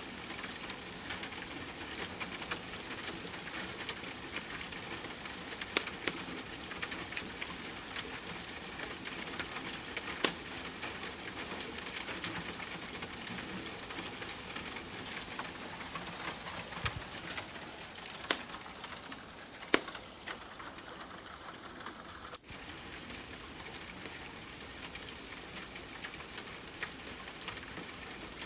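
Steady rain hiss with a wood fire crackling in a fireplace: scattered sharp pops and snaps over the even patter, a few of them louder, and a momentary dropout about three quarters of the way through.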